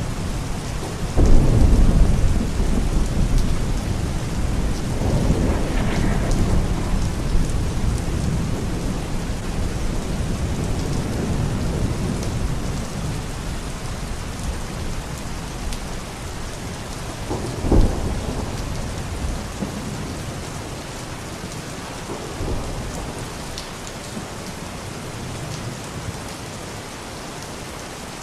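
Steady rain with rolling thunder. A loud rumble starts about a second in and swells again a few seconds later, a sharper crack comes about two-thirds of the way through, and the storm eases off toward the end.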